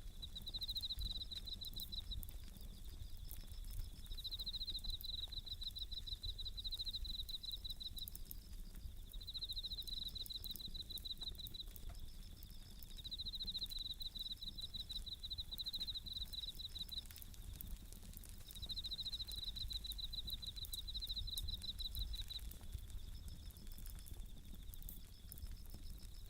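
Bell crickets (suzumushi) singing in bursts of fast, ringing trills that come again every few seconds. Under them a wood fire crackles with small scattered pops.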